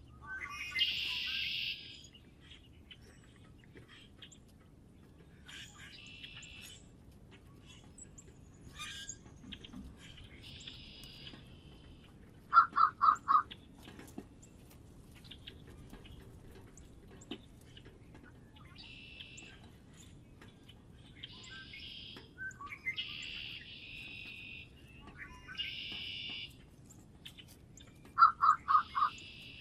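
Wild birds calling at a feeder: short harsh calls come again and again, and twice a quick run of four loud, lower-pitched notes stands out, once about halfway through and once near the end.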